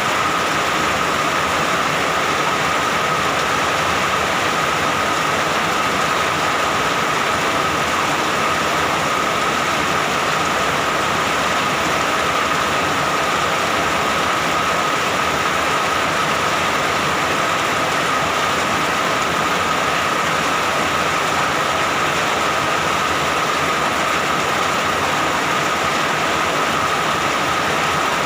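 Steady, continuous rainfall with an unbroken hiss, and a faint steady thin tone running under it.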